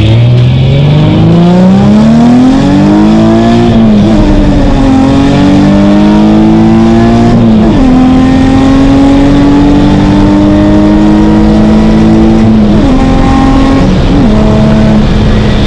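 Nissan 350Z's 3.5-litre V6 accelerating hard through the gears: the engine note climbs steadily in each gear and drops sharply at each upshift, about four, seven and a half and thirteen seconds in, then settles to a steady cruise near the end.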